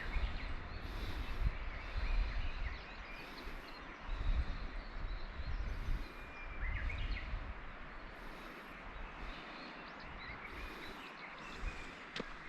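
Wild songbirds calling in a spring mountain forest: scattered short chirps, with a very high, faint note repeating about every second and a half. Low rumble from wind or walking underneath.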